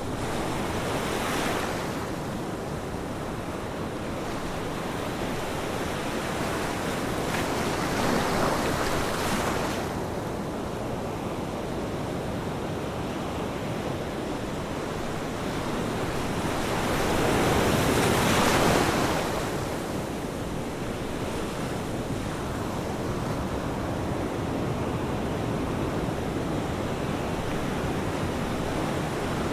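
Ocean waves breaking on a shore: a steady wash of surf with three swells as waves come in, about a second in, around eight seconds, and the loudest around eighteen seconds.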